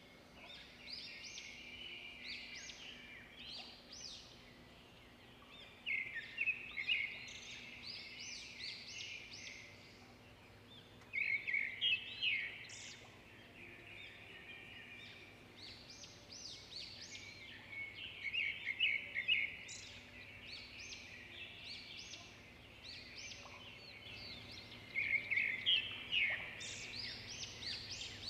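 Small birds chirping and twittering in bursts of many quick high notes, a new burst every few seconds.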